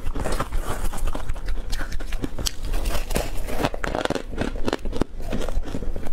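Close-up eating sounds of a crispy tartary buckwheat snack being bitten and chewed, with many sharp, irregular crunches and crackles.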